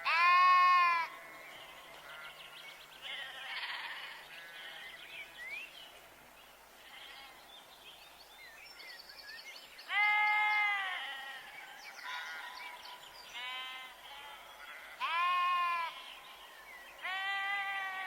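Sheep bleating: a loud bleat right at the start, then four more at intervals of a few seconds, with fainter calls in between.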